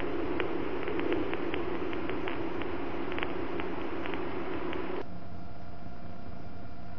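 Steady hiss and hum on the radio/intercom audio between transmissions, with a few faint crackles. The noise changes and thins out about five seconds in.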